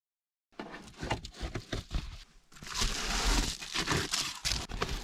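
Close rustling and crinkling handling noise, a busy string of quick scrapes and taps, starting about half a second in after a moment of silence.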